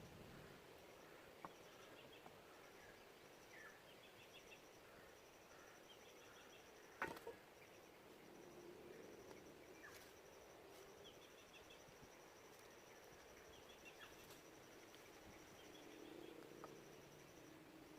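Faint forest ambience: an insect trilling in a high, pulsing note that stops and starts, with small scattered chirps. One sharp click about seven seconds in, and a few fainter ones later.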